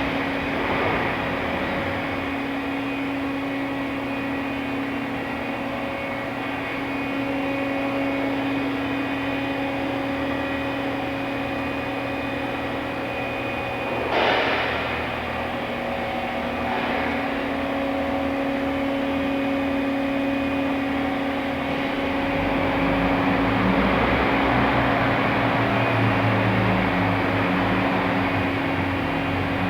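Fadal VMC4020A CNC vertical machining center running under power: a steady machine hum with a held tone, a brief swell about 14 seconds in, and a louder, deeper running sound from about 22 seconds on.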